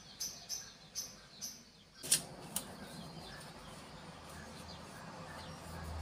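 Small birds chirping in short, high, quickly repeated notes. At about two seconds there is a sharp click, after which fainter chirps continue over a steady background hiss.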